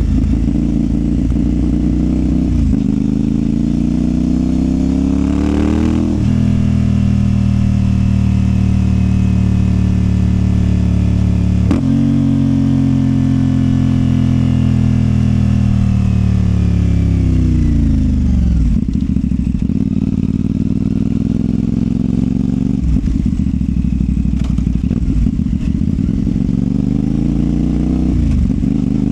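CFMOTO 450SR parallel-twin motorcycle engine and exhaust under way. The revs climb for the first six seconds, then drop and hold steady at a gear change. After that they fall away smoothly as the bike slows, then run low and uneven before climbing again near the end.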